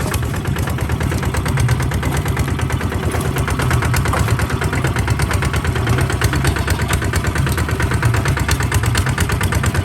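Kubota RT140 DI single-cylinder diesel engine running steadily with an even, rapid firing beat.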